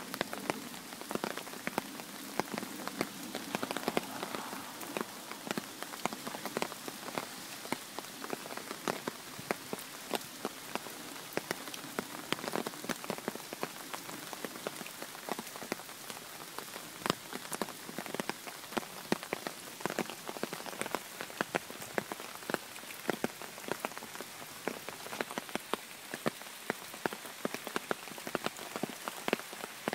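Steady rain falling, with a dense, irregular patter of sharp ticks from individual drops striking close by.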